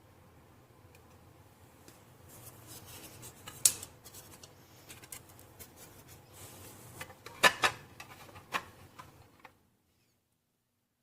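Objects being handled: rubbing and rustling with several sharp clicks, one a little after the middle and a close pair near the end, over a low steady hum, then the sound cuts off abruptly.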